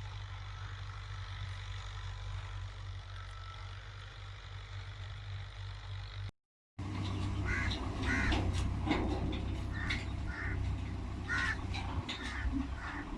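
Fiat 480 tractor's diesel engine running steadily. After a sudden cut about six seconds in, a series of short, harsh high-pitched calls repeats over the engine.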